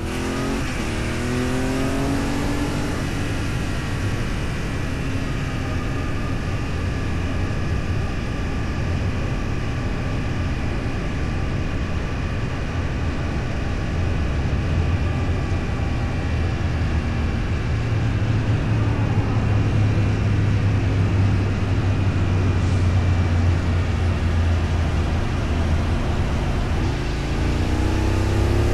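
A motor vehicle's engine accelerating, its pitch rising over the first few seconds, then running steadily under a constant road-and-wind rumble that grows louder from about halfway. Near the end it rises in pitch again as it accelerates once more.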